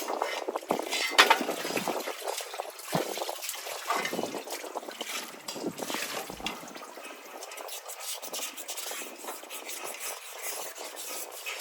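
Liquid splashing and trickling amid irregular handling sounds, with scattered sharp knocks and clicks, most of them in the first two seconds.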